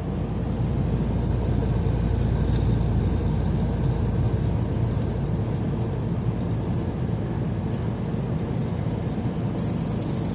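Steady road noise inside a semi-truck's cab cruising at highway speed: a low drone of engine and tyres, with wind coming in through cracked windows.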